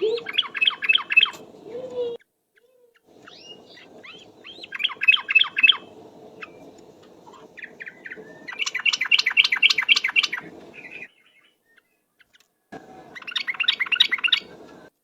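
Sooty-headed bulbul song in the rapid 'ropel' style, played as a bird lure: four quick bursts of fast repeated chattering notes, each lasting about a second or more, with short pauses between. A low background hiss starts and stops abruptly along with the song, as in a spliced recording.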